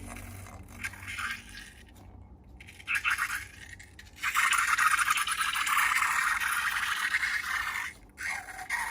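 Gritty scraping and crackling of slime ingredients being worked by hand in a container: short scrapes at first, then a long continuous stretch from about halfway in, with a brief pause near the end.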